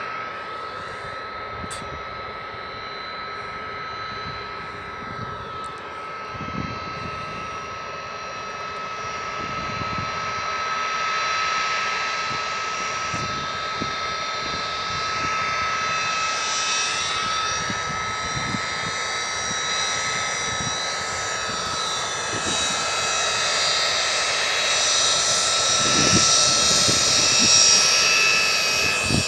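Airliner engines running with a steady high whine over a broad rush, slowly growing louder as the aircraft comes closer, loudest near the end.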